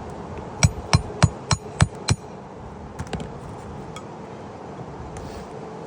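Hammer driving a nail into roof shingles: six quick sharp strikes, about three a second, then two lighter taps a second later.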